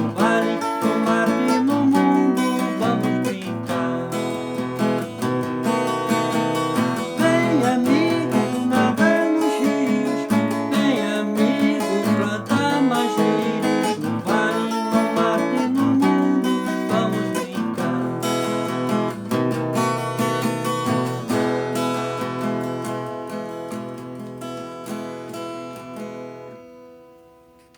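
Acoustic guitar strumming chords with a melody over them, fading out over the last few seconds and ending on a ringing chord.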